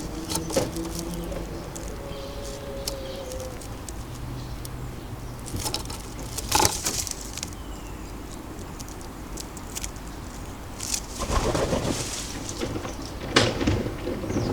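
Low cooing of a common wood pigeon for the first few seconds, then a few short, sharp rustles and knocks.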